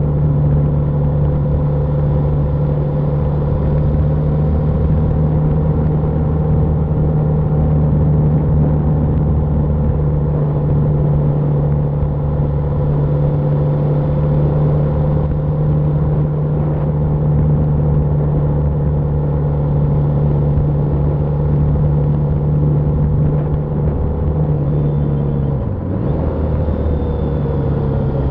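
BMW G310R's single-cylinder engine running steadily at cruising speed. About 25 seconds in, the engine note dips and settles at a lower pitch.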